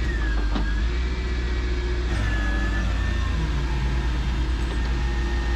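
Vehicle engine running steadily with a deep drone, with a faint high whine that wavers in pitch.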